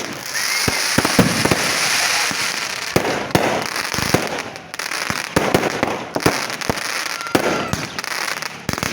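Fireworks display: a rapid string of bangs over dense crackling, with a few faint rising whistles of shells going up.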